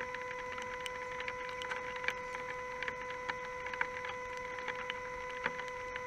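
Irregular light ticks, a few a second, typical of raindrops hitting nearby surfaces, over a steady high-pitched whine that holds one pitch throughout.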